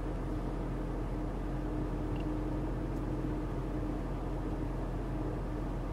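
Steady cabin noise inside a moving Toyota Prius: a low hum with a faint tone that comes and goes.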